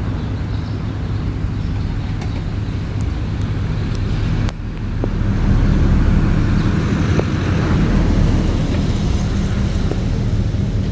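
Car engine running with a steady low rumble. It dips sharply about four and a half seconds in, then comes back somewhat louder.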